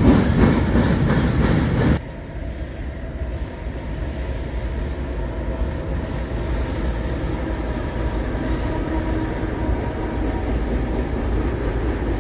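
Freight train cars rolling close past with a high, steady wheel squeal. About two seconds in, the sound cuts to a quieter, steady low rumble of the train's diesel locomotives crossing a bridge farther off.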